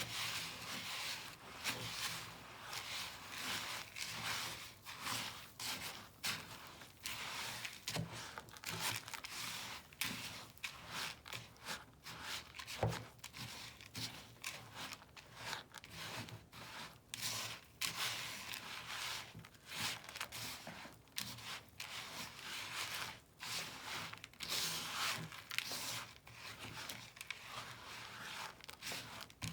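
Birdseed mixed with water, flour and corn syrup being stirred in a bowl: a continuous run of irregular gritty, rustling strokes.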